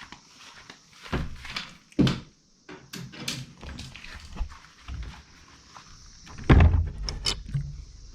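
A few dull thumps and knocks with rustling in between, the loudest about six and a half seconds in.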